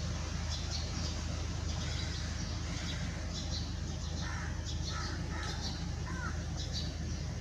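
Outdoor birdsong: a bird calls a few times between about four and six seconds in, over repeated short high chirps and a steady low hum.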